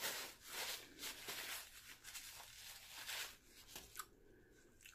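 Close-miked eating sounds of a person chewing food: irregular wet smacks and rustles that thin out after about three seconds, with a couple of small clicks near the end.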